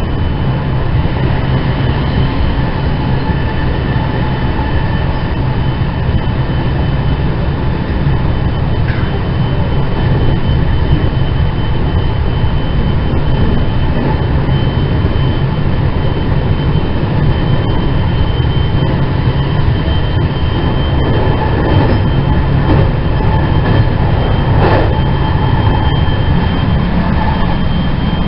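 Inside a JR West 207 series 2000-subseries electric train with IGBT inverter control, heard in the motor car while running: a steady rumble of wheels on rail, with faint steady high tones over it and a few short clicks.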